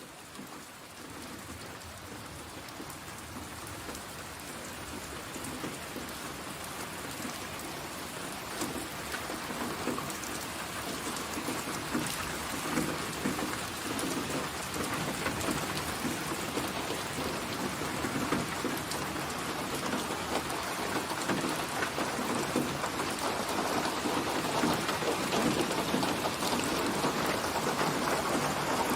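Steady heavy rain pouring down, fading in and growing gradually louder.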